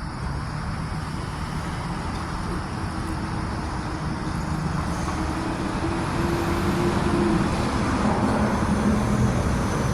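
Street traffic: motor vehicle engines running with a low hum, growing louder toward the end.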